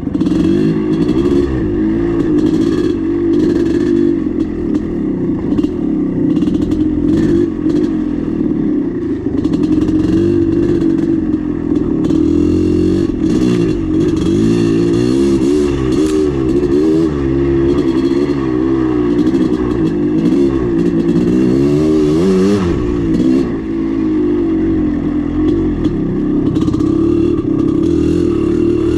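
Maico 440 two-stroke single-cylinder dirt bike engine running under constantly changing throttle as the bike is ridden on trail, its pitch rising and falling throughout. Frequent short knocks and rattles from the bike over rough ground.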